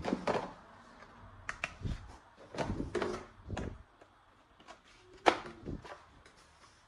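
Scattered clicks, knocks and light rattles of plastic toy guns and their parts being handled, with one sharper click just past five seconds in.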